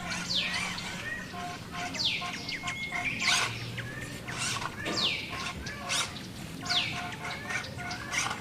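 Bird calls: a sharp descending whistle repeated every second or two, with shorter chirps in between.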